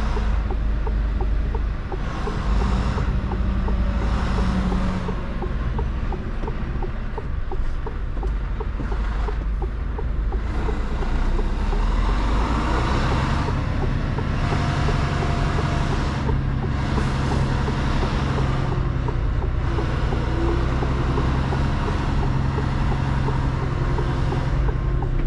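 Mercedes Actros truck's diesel engine running as the truck manoeuvres slowly, heard from inside the cab. The engine note rises and steadies from about halfway through.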